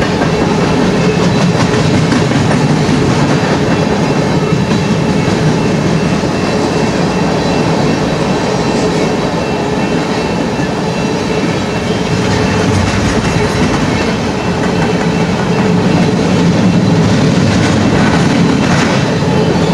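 Covered hopper cars of a freight train rolling past close by: a steady loud rumble with wheel clatter on the rails and a faint thin high wheel squeal.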